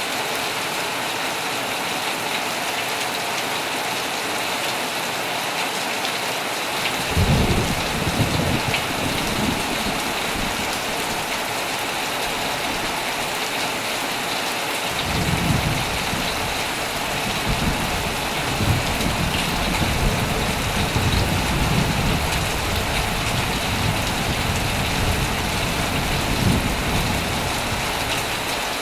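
Heavy rain falling steadily on a tent, an even hiss throughout. Thunder rolls in suddenly about a quarter of the way in and rumbles for several seconds, then a second long rumble starts about halfway and runs on to the end.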